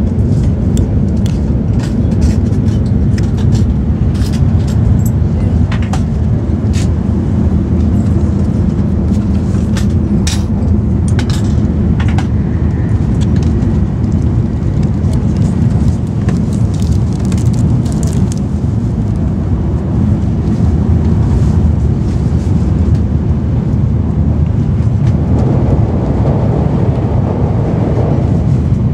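N700 series Shinkansen heard from inside the passenger cabin while running: a steady low rumble, with scattered light clicks and taps. A rushing sound swells near the end.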